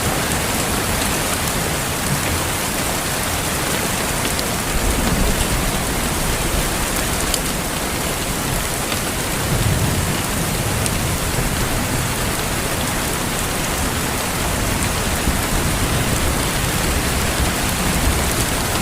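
Steady heavy rainfall, an even dense hiss of drops on hard surfaces, with a low swell in the rumble about five seconds in and again near ten seconds.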